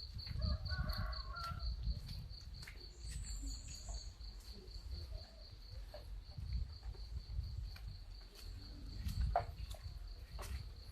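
A chicken gives a short clucking call about half a second in, over a steady pulsing insect call, with a brief high bird chirp about three seconds in and scattered light taps.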